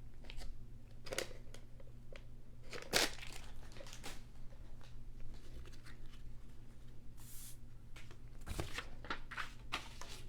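Basketball trading cards being handled and slid into soft plastic sleeves: scattered crinkles, rustles and small clicks of plastic and card stock.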